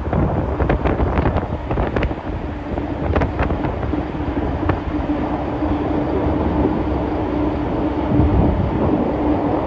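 Steady drone of the ferry's engines, a constant hum over a rumbling noise, with some wind on the microphone. A few sharp clicks or knocks come in the first half.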